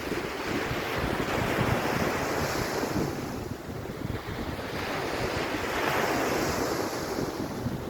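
Surf washing onto a sandy beach, swelling up twice, with wind rumbling on the microphone.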